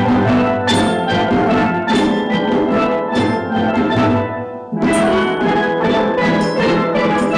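Steel drum band playing, many struck pan notes ringing together over percussion, with a brief break about two-thirds of the way through before the playing picks up again.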